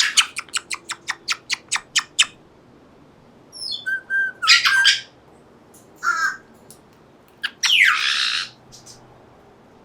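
African grey parrot imitating a crow: a quick run of about ten sharp clicks, then a whistled note and three harsh, caw-like squawks.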